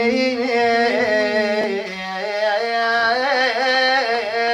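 A man singing a long, drawn-out melismatic vocal line without words, holding and bending the note in traditional Iraqi style.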